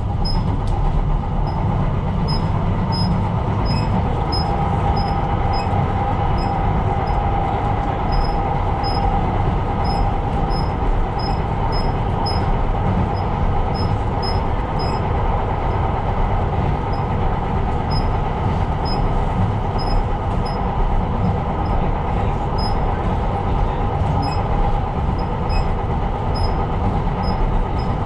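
Tyne & Wear Metro train running at speed, heard from the driver's cab: a steady rumble of wheels on rail with a steady mid-pitched whine over it. A faint high tick repeats about twice a second throughout.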